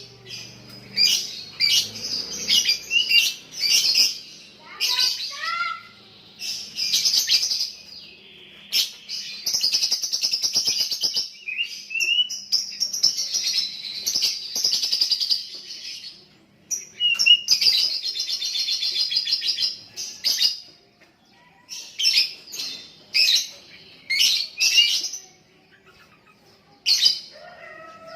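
Young lovebird singing: rapid high chattering bursts mixed with several long unbroken trills of a few seconds each, the drawn-out 'ngekek' song.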